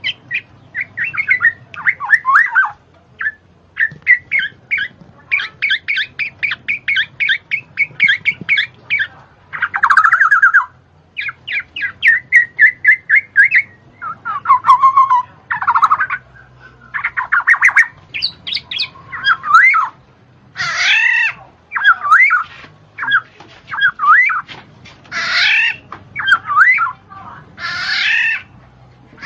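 A bird calling: a long run of loud chattering, squawking and whistled up-and-down glides in quick, varied phrases, with short pauses between them.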